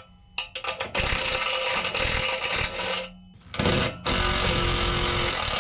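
Impact wrench run in bursts to spin off exhaust bolts: a few short blips, then a run of about two seconds, a brief one, and another long run near the end.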